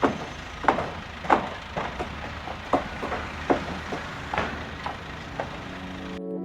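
Sharp knocks, about one or two a second at uneven spacing, over a steady low engine hum. Near the end this cuts off suddenly into organ music.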